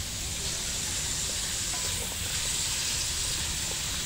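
Carrots and potatoes sizzling steadily in hot cooking oil in a wok, being pan-fried until half-cooked, over a low rumble.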